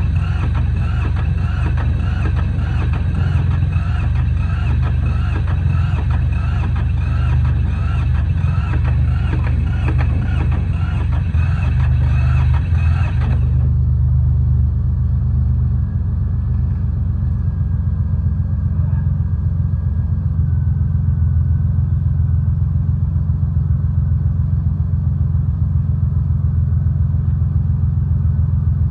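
Yanmar YM146 garden tractor's diesel engine running steadily with a low rumble. A brighter clattering layer over it cuts off suddenly about halfway through, leaving the engine running smoothly on its own.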